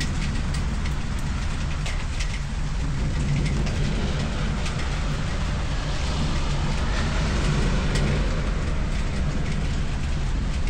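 Steady rain falling, with a few single drops ticking sharply close to the microphone, over a low steady rumble that swells around the middle.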